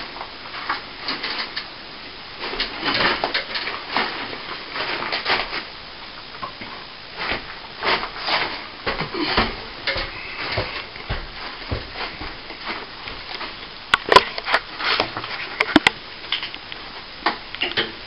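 Hand tools scraping and knocking at old plaster, with irregular scrapes and taps and a few sharp clicks near the end, as loose plaster is worked out of a crack.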